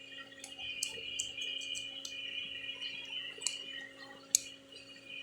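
Small sharp clicks and taps of the NMAX's plastic turn-signal handlebar switch being refitted and tried, with one louder click about four seconds in. They sound over a steady high-pitched drone and a low hum.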